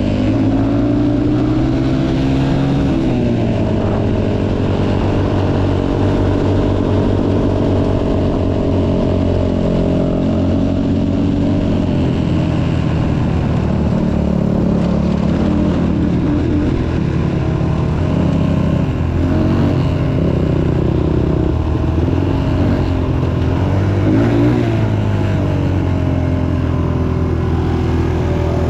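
Dirt bike engine revving up and down as it is ridden, its pitch rising and falling with the throttle throughout.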